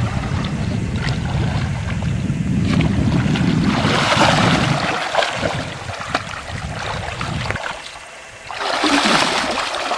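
Water rushing and splashing around a canoe, with a low rumble on the microphone for the first half and two louder splashing surges, about four and nine seconds in.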